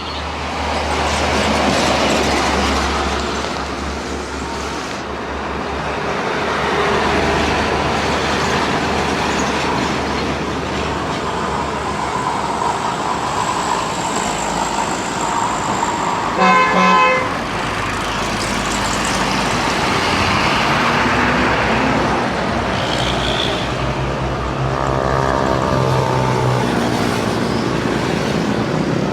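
Truck engine and road noise running steadily, with one loud vehicle horn blast of about a second, some seventeen seconds in.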